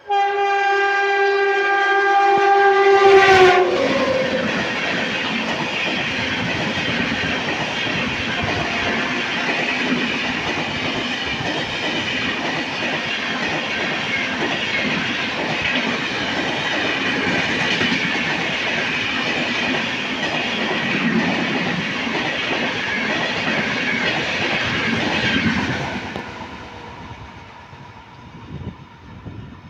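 Indian superfast express train passing at speed: the locomotive's horn sounds for about three and a half seconds and drops in pitch as the locomotive goes by, then the coaches rush past with steady wheel-on-rail clatter for some twenty seconds before the sound falls away.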